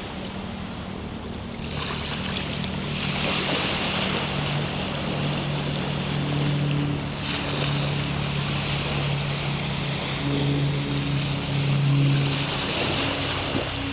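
Ocean waves breaking and washing in, swelling and fading about every four seconds. Underneath are soft, low held tones of calm ambient music that shift pitch now and then.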